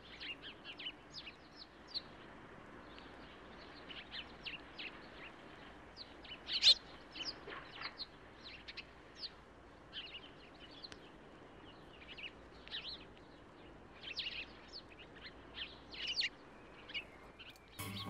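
Small songbirds chirping: scattered short, high chirps, several in a second at times, one louder chirp about a third of the way in, over faint outdoor background noise.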